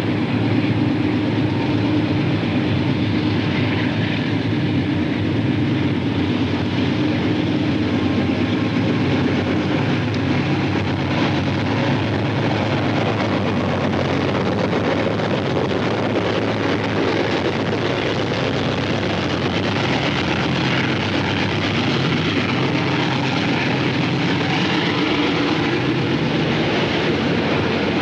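Train with a diesel locomotive running: a steady, heavy engine drone under broad rolling noise, holding level throughout.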